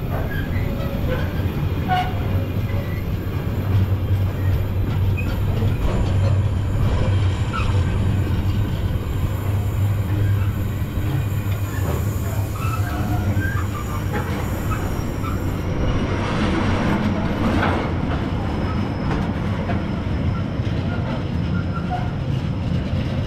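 A train running along the track: a steady low rumble with scattered short, high wheel-on-rail squeaks and a few clicks from the track.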